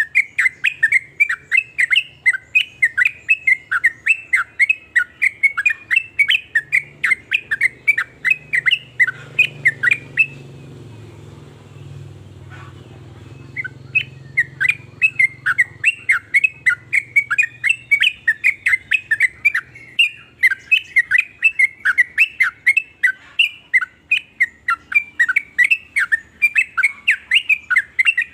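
Yellow-vented bulbul (trucukan) calling in a fast run of sharp chirps, about three or four a second. It breaks off for a few seconds near the middle, then starts again.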